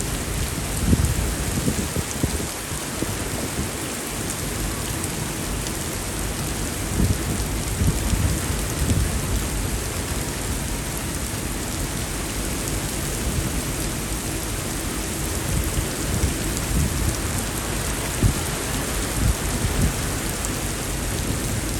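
Heavy rain pouring in a dense, steady hiss, with irregular low rumbling surges underneath.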